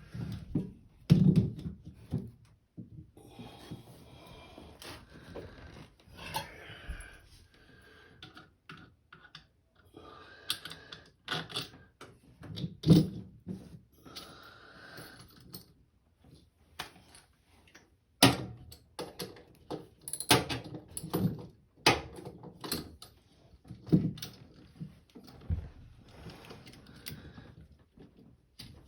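Irregular clicks, clinks and knocks of metal parts and hand tools being handled while the stator of an LG direct-drive washer motor is fitted and its bolts started, with some rustling between the knocks.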